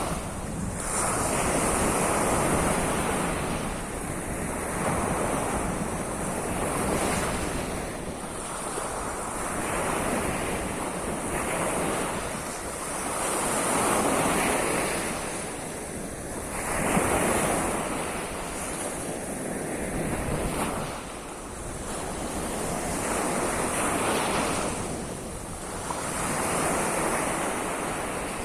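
Sea of Azov waves breaking on the shore, the surf swelling and falling away every two to three seconds, with wind rumbling on the microphone.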